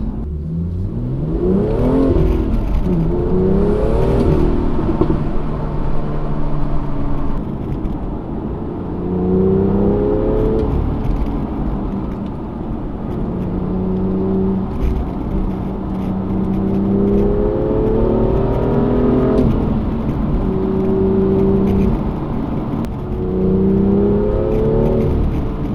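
BMW M2's N55 turbocharged straight-six on the stock exhaust, pulling hard through the gears: engine pitch climbs and drops back at each upshift, three quick shifts in the first few seconds, then longer climbs with steadier cruising in between.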